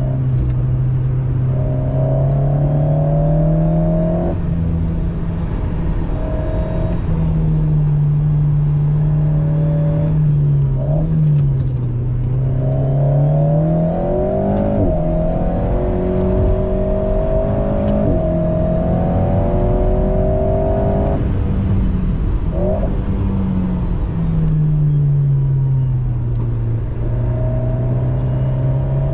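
Alpine A110 Pure's 1.8-litre turbocharged four-cylinder engine heard from inside the cabin, its note climbing under acceleration and dropping sharply again and again. There are a few quick jumps in pitch between the climbs.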